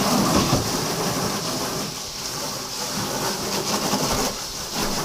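Water running steadily from a hose, an even hiss, as an alligator's enclosure is refilled during a water change.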